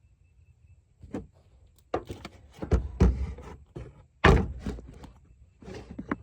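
Camera being handled and propped into place: a series of knocks and thumps, the heaviest about four seconds in.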